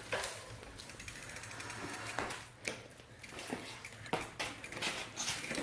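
Bicycle freewheel hub ticking as the wheel turns without pedalling, with a few sharp knocks at irregular moments.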